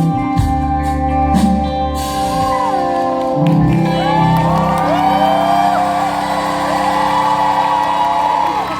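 Live rock band playing the end of a song. The drum beat stops about two seconds in, and guitars and keyboards hold a sustained closing chord while voices sing and whoop over it.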